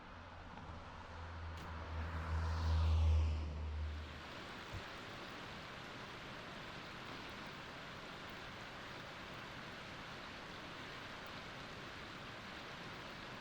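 Mountain stream rushing steadily over its rocky bed. During the first four seconds a motor vehicle rumbles past, loudest about three seconds in, then cuts out, leaving only the water.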